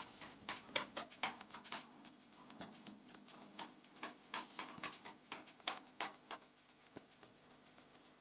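Irregular light taps and short scrapes, several a second, of a hand tool working paint onto a surface for a faux concrete finish.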